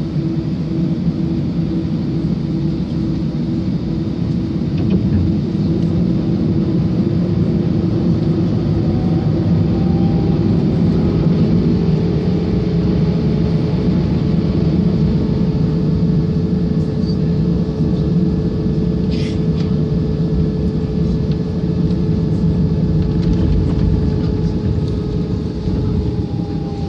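Airbus A319 airliner heard from inside the cabin at takeoff: a loud, steady rumble of engines and airflow, with an engine tone whose pitch climbs slowly.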